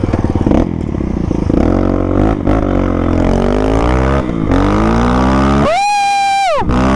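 Raptor 300R dirt bike engine accelerating under way, its revs climbing and dropping through about three gear changes. Near the end the engine sound cuts out for about a second under a loud high tone that rises, holds and falls.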